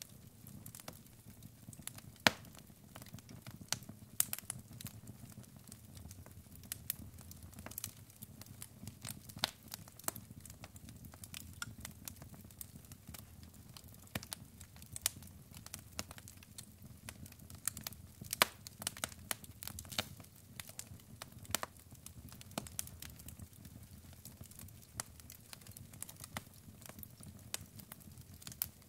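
Wood fire crackling: burning logs giving irregular sharp pops and snaps over a low, steady rumble of flames.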